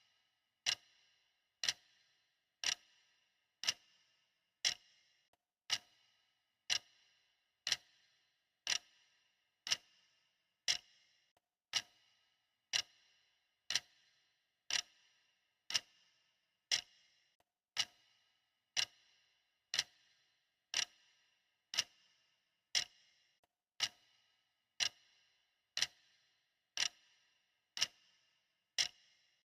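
A clock ticking steadily, one tick a second, each tick a sharp click with a short ringing tail.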